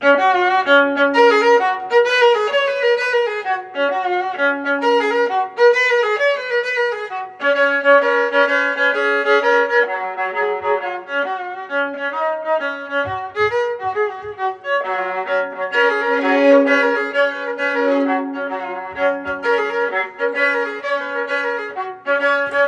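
Intro music: a violin playing a lively melody over a sustained lower note.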